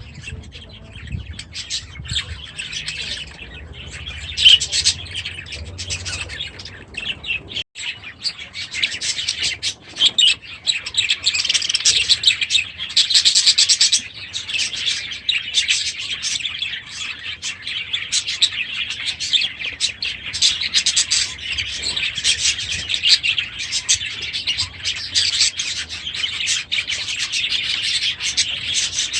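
A flock of budgerigars chattering and chirping continuously, many high calls overlapping. There is an abrupt change about eight seconds in, after which the chatter grows denser.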